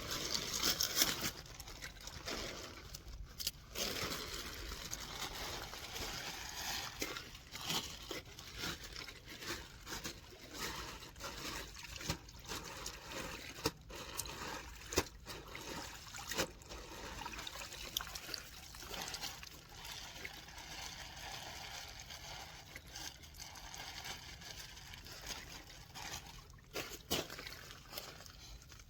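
Water trickling and lapping, steady and uneven, with scattered small clicks and knocks throughout.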